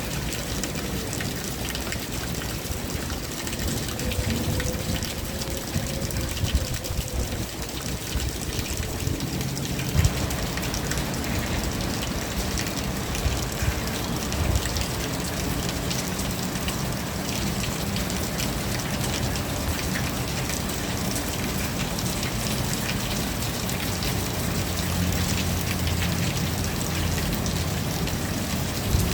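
Steady rain falling, an even hiss with many small drop ticks on surfaces. About ten seconds in it grows fuller and denser. Over the first several seconds a faint hum rises and falls in pitch beneath the rain.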